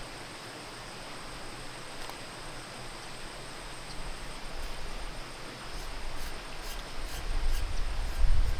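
Steady outdoor hiss, with a low rumble that grows louder over the last few seconds.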